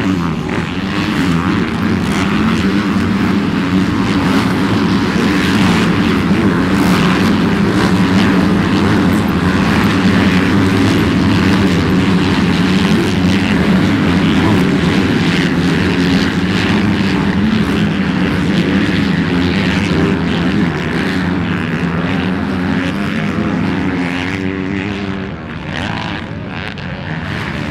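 Motocross dirt bike engines running hard at high revs, a steady loud drone with a wavering pitch. Near the end the sound dips a little and the pitch swings up and down as throttles open and close.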